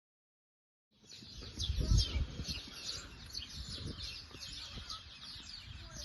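Small birds chirping, many short quick chirps repeating over one another, starting about a second in, over a low rumble that is loudest shortly after the start.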